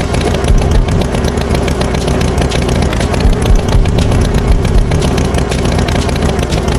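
Tractor engine running steadily and loudly, with a rapid rattle.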